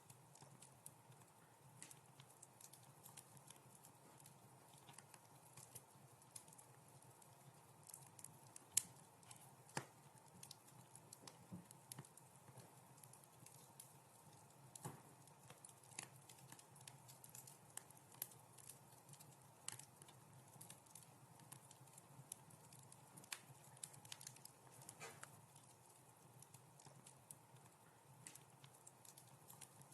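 Wood fire crackling in a fireplace: irregular sharp pops and snaps over a soft, steady low hiss, the loudest pop about nine seconds in.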